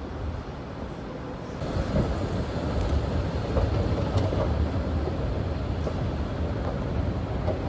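A steady low rumble that grows louder about a second and a half in, with a few light knocks.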